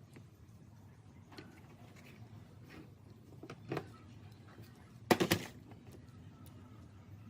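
Scattered light clicks and a single knock, then a quick run of three or four sharp knocks about five seconds in.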